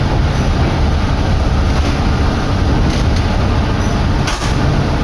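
Kominato Railway diesel railcar running along the line, heard from inside the car: a steady loud rumble of engine and wheels, with a few brief clicks about two, three and four seconds in.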